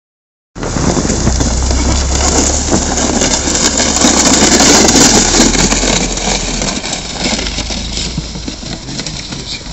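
A car engine running as the car tows a plastic sled across snow, under a loud rushing noise; it is loudest about four to five seconds in and fades after about six seconds as car and sled move away.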